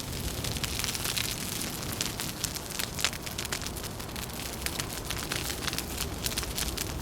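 Fire crackling with many sharp pops, over a low steady rumble of wind.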